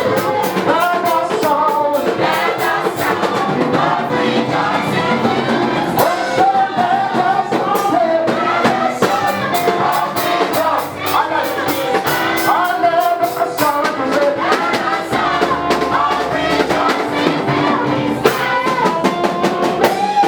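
Live gospel praise music: voices singing over a band, with drums keeping the beat.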